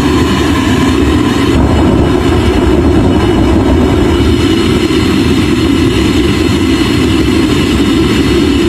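Homemade jet engine running with a loud, steady noise.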